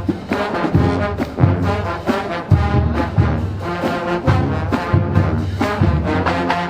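Marching band playing: a brass melody over low brass and drums with a steady beat.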